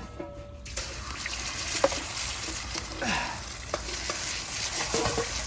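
Fried rice sizzling in an iron frying pan while being stirred, with a few sharp knocks of metal on the pan. The sizzle starts suddenly less than a second in.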